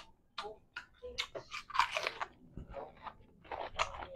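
A man chewing a mouthful of food close to a clip-on microphone: many short, irregular mouth clicks and crunches, several a second.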